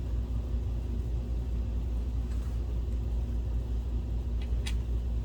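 Steady low background rumble, with two faint light clicks about four and a half seconds in.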